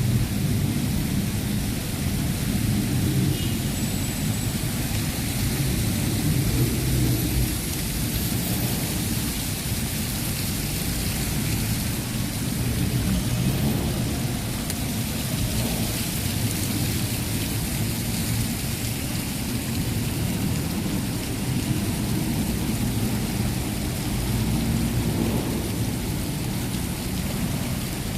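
Steady low rumbling background noise under a fainter hiss, with no distinct events.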